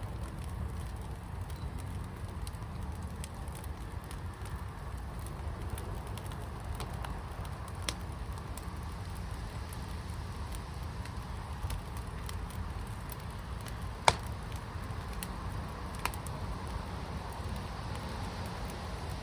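Fire burning in a firepit: a steady low rumble with scattered small crackles and a few sharp pops, the loudest about fourteen seconds in.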